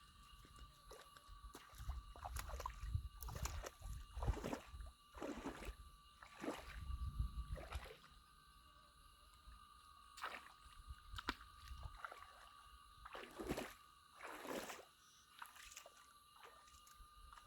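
Water sloshing and splashing in a string of short, irregular splashes, with low rumbling in the first half.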